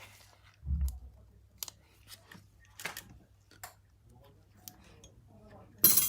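Small clicks and taps of tools and parts being handled during a phone screen repair, with a low thump about a second in and a louder sharp click near the end.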